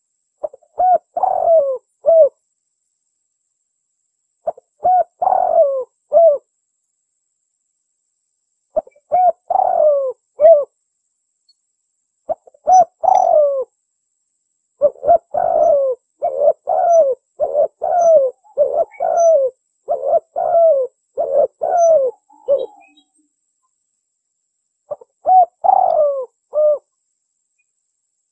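Spotted dove (tekukur) cooing: short phrases of a few low coos, in clusters separated by silent pauses, with a longer run of repeated phrases through the middle. It is the call of a contest-winning dove, played as a lure to draw in wild doves.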